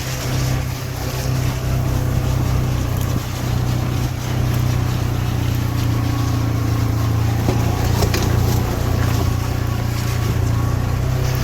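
Engine of a Ranger utility vehicle running steadily while driving, a constant low drone, with a few short knocks about two-thirds of the way through.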